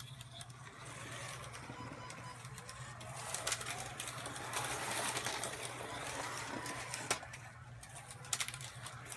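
Carrera Digital 132 slot cars running on the track, their small electric motors whirring and getting louder for a few seconds in the middle as a car comes close, with a few sharp clicks.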